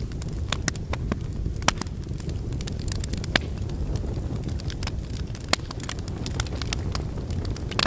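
Burning logs in a fireplace crackling, with irregular sharp pops over a steady low rumble of the flames.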